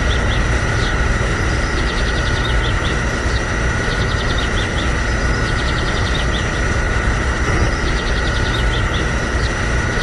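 Small motor of a homemade mini tractor model running steadily: a constant high whine over a dense low rumble, with a faint high chirping pattern repeating about every second and a half.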